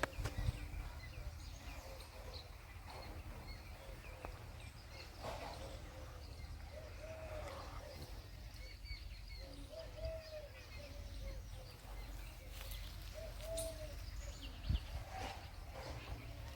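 Birds calling: a series of short, low, arched calls repeated every second or two, with faint high chirps, over a steady low rumble.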